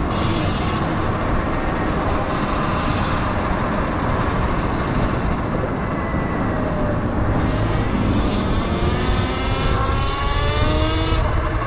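Sur Ron electric dirt bike riding, with steady wind rush on the microphone. Over the last few seconds the electric motor's whine rises in pitch as the bike speeds up.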